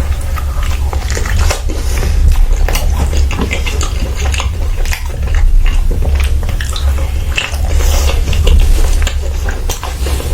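Close-miked eating sounds: irregular wet chewing, lip smacks and mouth clicks, over a steady low hum.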